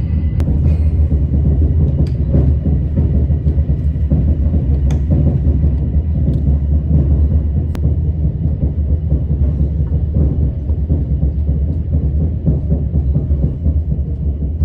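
Train running, a loud steady low rumble with a few faint clicks.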